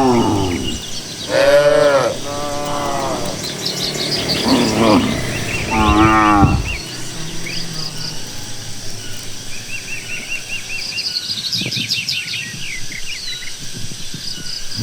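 Village cattle mooing, about five calls in the first seven seconds. Birds chirp and trill throughout, more busily near the end.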